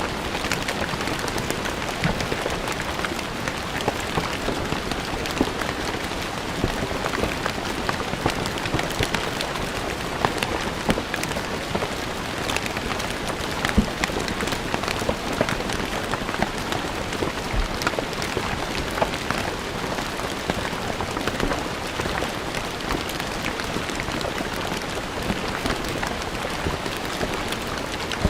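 Steady rain falling on a stone surface, a dense patter with many individual drop splashes.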